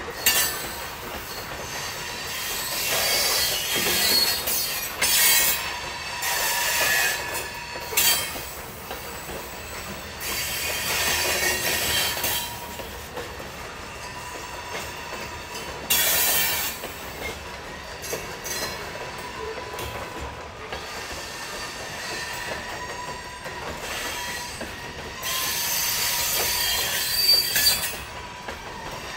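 Railroad cars of a very heavy freight train rolling past on century-old track, the track creaking and the wheels squealing. High-pitched squeals and creaks flare up and die away every few seconds.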